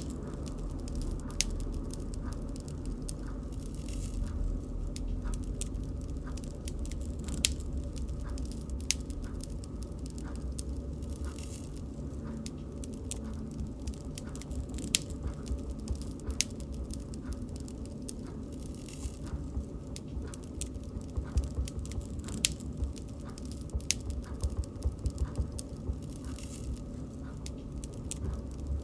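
Wood fire crackling: irregular sharp pops and snaps over a steady low rumble of the burning fire, with a denser run of pops a little past the middle.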